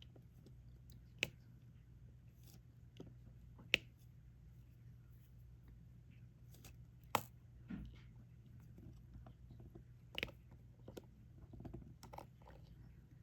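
Diamond painting pen placing drills on the adhesive canvas: a few sharp clicks several seconds apart, with fainter small taps and scrapes between, over a low steady hum.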